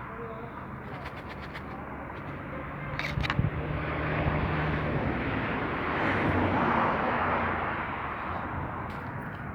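A motor vehicle passing by: engine hum and road noise swell, peak about six to seven seconds in, then fade.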